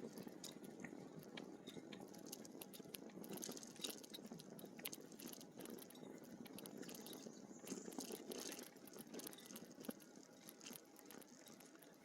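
Faint, steady crackling and rustling from e-bike tyres rolling over a trail, with many small irregular ticks.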